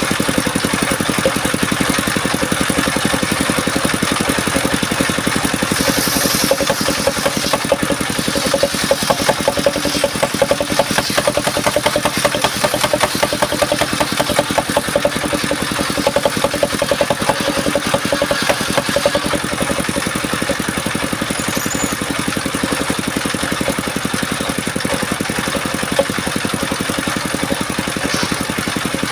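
Engine of a portable circular sawmill running steadily with an even pulsing beat.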